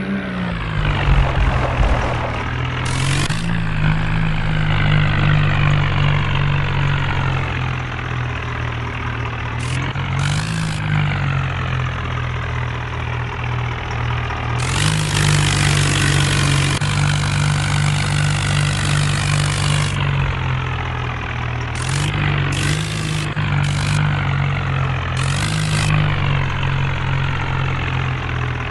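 Tractor diesel engine running steadily while hauling a double trolley, its pitch rising and dipping briefly a few times. Stretches of high hissing noise come and go over the engine.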